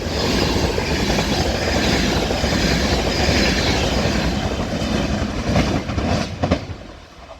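Class 390 Pendolino electric tilting train passing through the station at speed: a loud, steady rush of wheel and air noise that fades away near the end, with a few sharp clacks.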